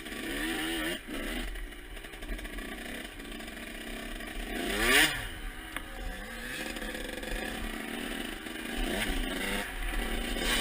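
Dirt bike engine revving up and down as it is ridden, the pitch rising and falling several times, with the loudest rev about halfway through.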